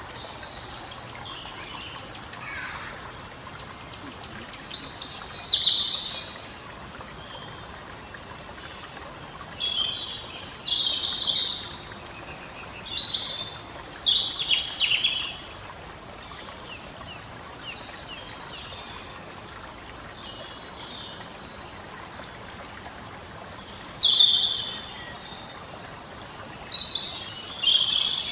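Birds singing: loud, warbling song phrases come every few seconds over a steady series of short, high repeated chirps.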